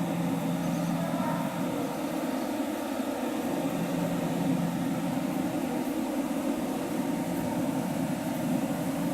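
Steady low mechanical drone, even and unbroken, with no distinct events.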